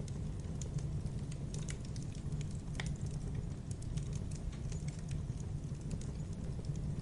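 Campfire burning steadily: a low, even rumble of the flames with frequent irregular crackles and pops of the burning wood.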